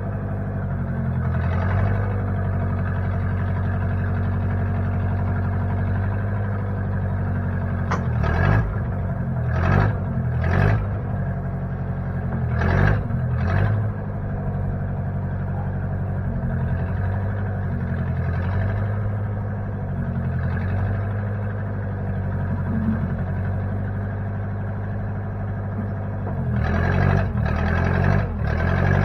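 Engine of a 1960 Case 540 loader-backhoe running steadily, with several short, louder noises breaking in about eight to fourteen seconds in and again near the end.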